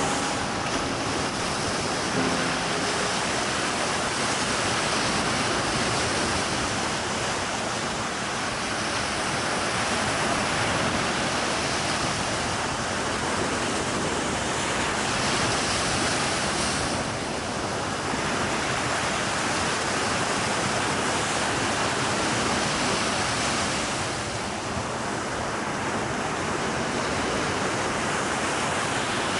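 A steady rushing noise, much like surf, swelling and easing slowly over several seconds at a time. A faint musical tone sounds about two seconds in.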